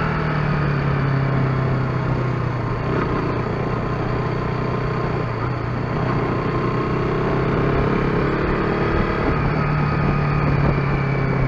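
KTM RC 125's single-cylinder 125 cc engine running under way at a steady pitch, which sags slightly midway and picks up again near the end, over a continuous rush of noise.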